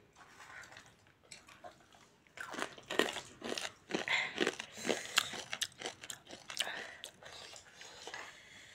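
Crunchy fried food being bitten and chewed close to the microphone. Sharp crunches come thick and irregular, starting about two seconds in and easing off near the end.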